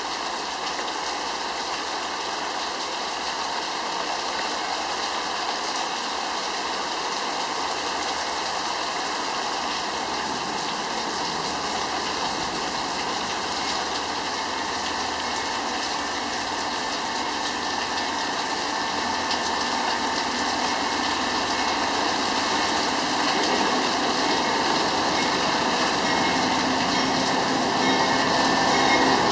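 Steady rain hiss with an empty Union Pacific coal train approaching, led by diesel-electric locomotives. Its engine hum and rail noise grow steadily louder over the last ten seconds or so as the locomotives draw near.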